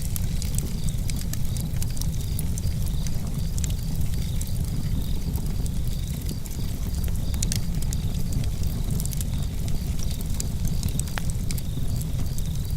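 Campfire crackling: many sharp pops and snaps at irregular moments over a steady low rumble.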